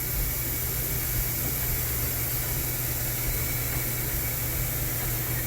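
Steady low hum and even hiss of a running Miyano BNE-64SY2 CNC turning center while its upper turret traverses. The ball-screw axis motion itself is very quiet, with no grinding or knocking.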